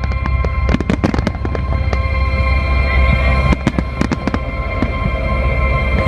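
Aerial fireworks bursting in quick succession, many sharp bangs and crackles, over loud music with a steady low bass.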